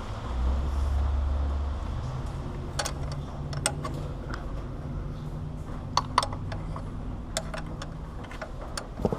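Scattered light metallic clicks and clinks of a wrench and a steel power steering line fitting being handled, a few seconds apart, over a low steady hum. A low rumble comes in the first second or two.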